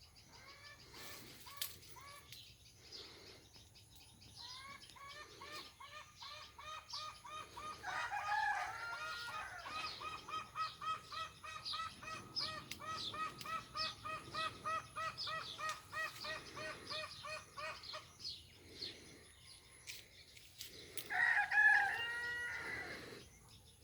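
Chickens calling: a long run of rapid, evenly repeated clucking notes lasting about fourteen seconds, with a louder call about eight seconds in and another, the loudest, near the end.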